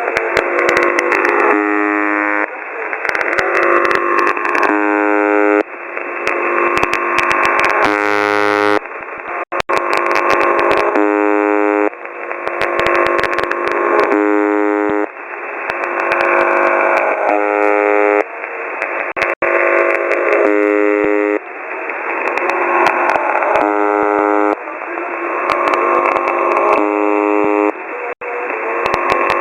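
Shortwave radio signal demodulated by a software-defined radio tuned near the Buzzer (UVB-76) frequency. A buzzing tone with many overtones pulses on and off about once a second, alternating with noisy interference, with scattered clicks. It has the narrow, tinny sound of a receiver's audio band.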